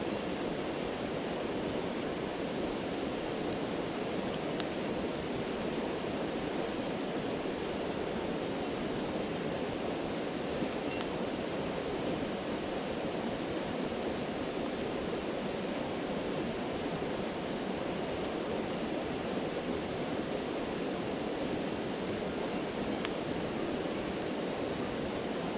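Steady rushing of a stream, with a few faint, scattered crackles from a campfire.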